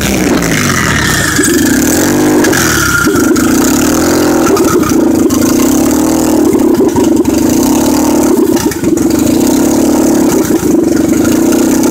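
Turbocharged car engine dropping back from a throttle blip in the first second or so, with a fainter falling whistle above it as the intercooler-mounted blow-off valve vents. It then settles into a steady idle.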